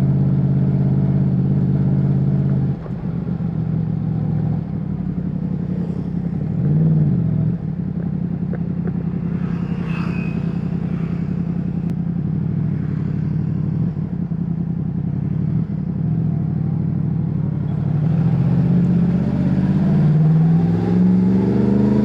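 Yamaha MT-10's crossplane inline-four engine running, steady at first, dropping off about three seconds in, with a short rise and fall in revs about seven seconds in. From about eighteen seconds its pitch climbs as it revs up and pulls harder.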